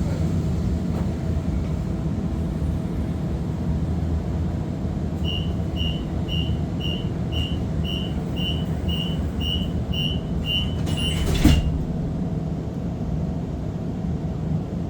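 Inside a streetcar: a steady low hum from its drive and ventilation. About five seconds in, a run of about a dozen high beeps sounds, roughly two a second; this is the door-closing warning. A loud knock follows as the doors shut.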